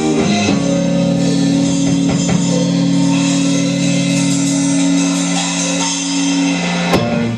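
Rock band music with electric guitar and drums: the band lands on one held chord that rings out steadily for about six seconds, then a single sharp click near the end.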